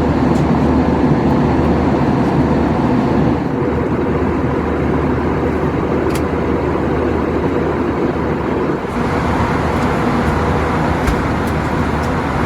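Steady cabin noise of an Airbus A321-200 in flight: the even rush of engines and airflow heard from a passenger seat, with a low hum underneath.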